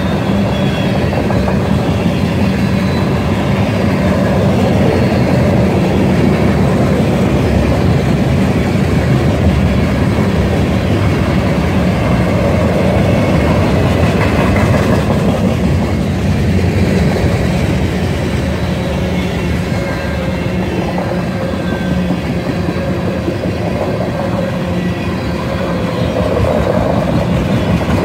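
Freight cars of a mixed freight train (tank cars, boxcars, covered hoppers) rolling past, a loud, steady rumble of steel wheels on the rails.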